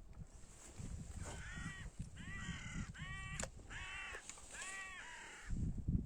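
A crow cawing five times in a row, about one call every second. Under the calls there is a low rumble, with a louder thump near the end.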